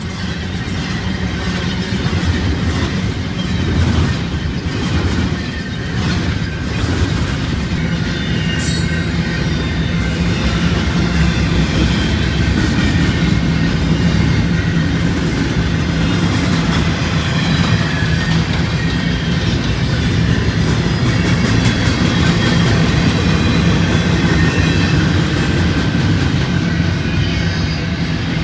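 A train passing close by: a loud, steady rumble of wheels on the rails, with a few sharp clicks in the first several seconds.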